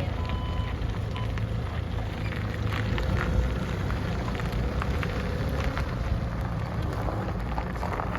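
Forklift engine running steadily, with rattles and knocks from the machine as it works. A single reversing beep sounds at the very start.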